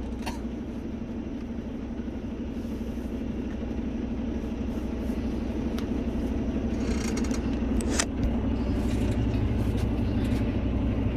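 Semi-truck engine and road noise heard inside the cab while driving: a steady drone that slowly grows louder, its low rumble deepening about eight seconds in.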